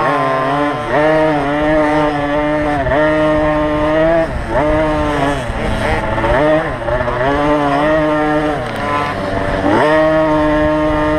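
50cc two-stroke motocross bike engine racing, revving up and dropping back again and again as the throttle is opened and rolled off, about every one to two seconds.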